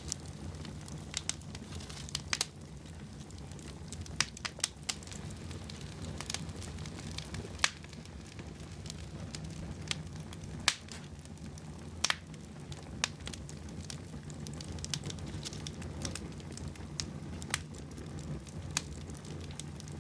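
Wood fire burning in a fireplace: irregular sharp crackles and pops over a steady low rumble of the flames, with two louder pops about 7.5 and 10.5 seconds in.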